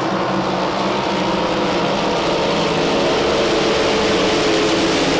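Drag boat racing engine running loud and steady, with a dense rumble of engine tones.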